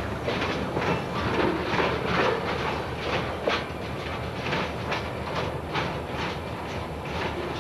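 Freight train cars rolling past, their wheels clicking over rail joints in a steady run of a few clicks a second.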